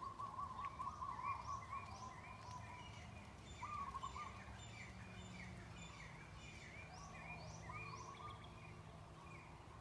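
Several birds calling at once: many short repeated chirps and quick downward-sweeping whistles, with a warbling trill in the first two seconds and again about four seconds in, over a steady low background rumble.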